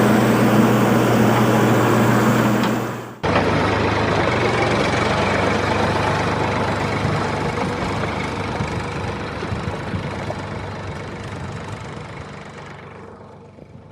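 Engine running with a steady hum that dies away about three seconds in; a rougher, noisier engine sound then starts abruptly and fades out slowly toward the end.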